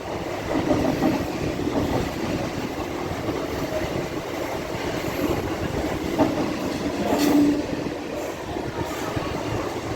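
Electric multiple-unit local train running on the track, its wheels clattering over the rails with a steady rumble, and a brief whine about seven seconds in.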